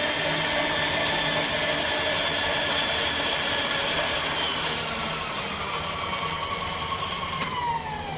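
An electric motor whining at a steady pitch, then slowing down with a falling pitch from about halfway through. A click comes near the end, after which the pitch drops faster.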